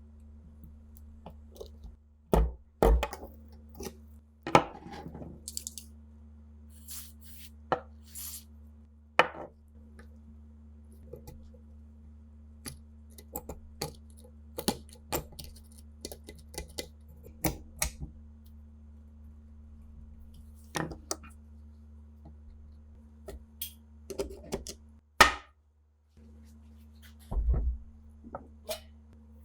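Irregular clicks and knocks of metal parts and tools being handled during work on an old, rusty Nagant revolver, over a steady low hum.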